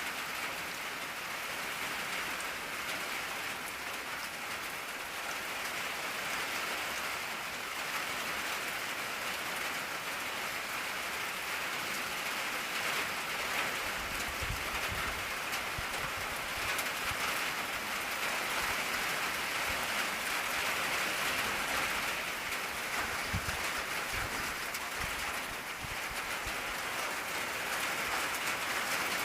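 Steady rain drumming on an old tin (corrugated metal) roof, a dense even patter. A faint low rumble comes and goes in the middle stretch.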